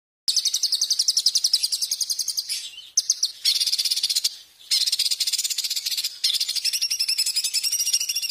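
Small songbird singing a loud, very rapid trill of high notes repeated many times a second, in long runs broken by short gaps.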